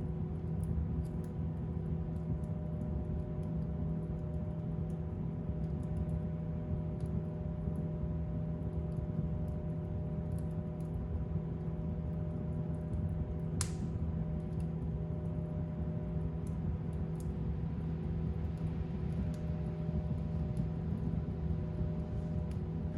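Fireplace fire burning with a steady low rumble and faint scattered crackles, with one sharper pop a little past halfway.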